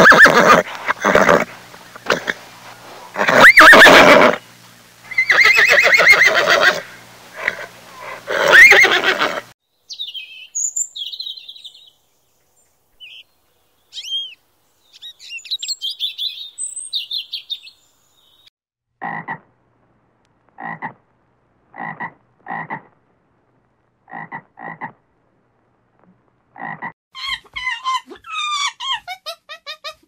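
A string of different animal calls. First comes a pony's loud, heavy calls for about nine seconds, then a small yellow weaver bird's high chirps. After that come about a dozen short croaks, evenly spaced, and near the end a burst of high, quavering calls.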